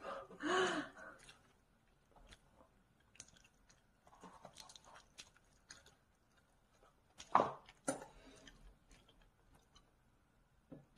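A person chewing crunchy food close to the microphone: scattered small crunches and mouth clicks, with two louder crunches about seven and a half seconds in. There is a brief voice sound right at the start.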